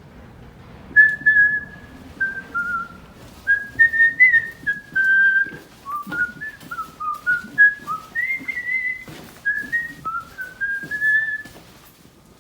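A person whistling a tune, a string of short notes stepping up and down, starting about a second in and stopping shortly before the end.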